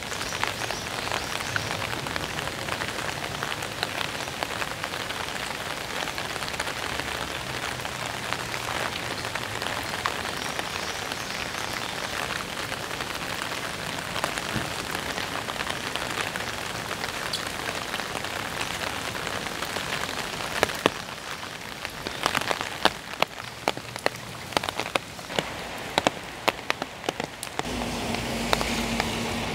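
Steady rain pattering on leaves and wet pavement, a dense hiss of drops, with louder single drops striking close by from about two-thirds of the way in. Near the end, a low steady engine hum of road traffic comes in.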